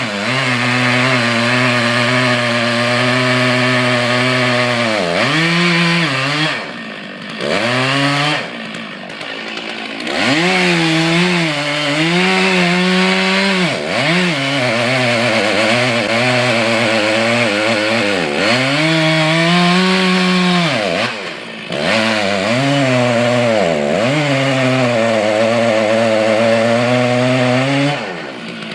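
Chainsaw running at high revs while cutting wood, its engine note sagging and recovering again and again as the chain bites in. Twice it drops away for a second or two.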